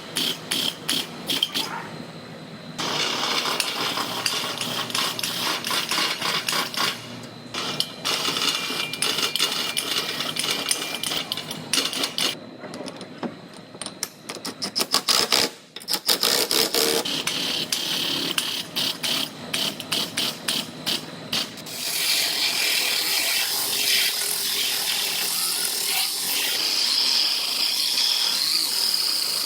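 Body-shop power tools at work on a car's sheet-metal quarter panel: bursts of rapid clicking and rattling broken by short pauses. About two-thirds of the way in, a steady high whir takes over.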